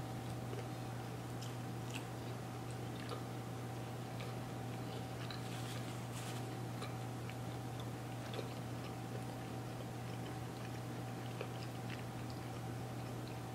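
A person chewing bites of a soft pretzel dog, with small, scattered mouth clicks over a steady low hum.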